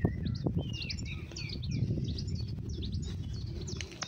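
Songbirds chirping and singing outdoors, many short overlapping calls and warbles, over a low rumble.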